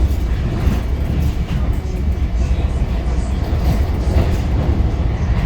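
Long Island Rail Road train running, heard from inside the passenger car as a steady low rumble with rail noise.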